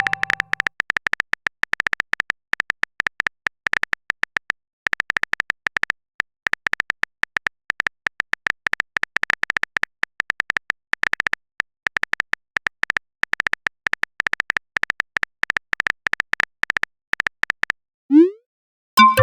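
Rapid, irregular clicking of a phone-keyboard typing sound effect, with a short pause about five seconds in.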